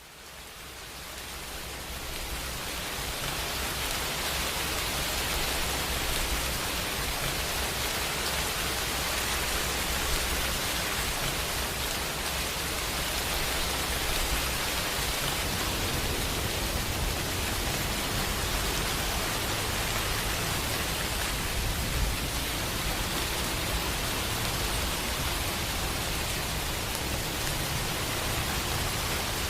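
Steady rain, a dense even hiss of falling rain that fades in from near silence over the first few seconds and then holds steady.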